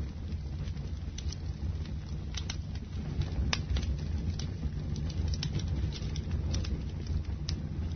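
Bonfire burning: a steady low rumble of flames with sharp crackles and pops from the burning wood scattered throughout.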